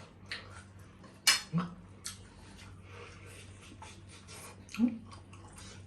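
Cutlery clinking against plates and dishes while people eat: a handful of sharp clicks, the loudest about a second in, over a steady low hum.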